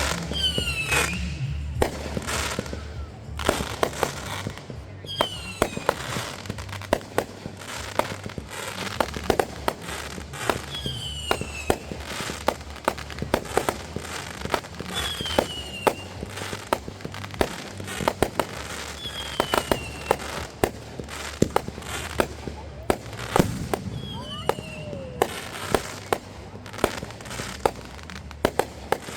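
Fireworks going off in a rapid string of sharp bangs and pops. Every few seconds a whistle falls in pitch.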